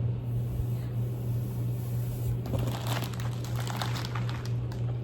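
Crinkling and rustling of product packaging being handled, starting about halfway through, over a steady low hum.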